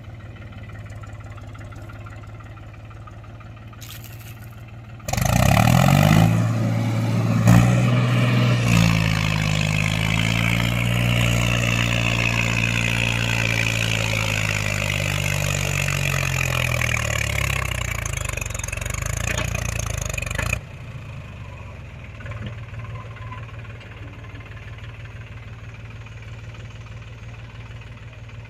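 Mahindra tractor's diesel engine running low and steady, with a much louder stretch of about fifteen seconds where it revs, its pitch drifting up and back down. The loud stretch starts and stops abruptly.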